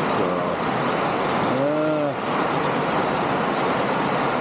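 Heavy rain pouring onto the workshop roof: a dense, steady hiss, really coming down.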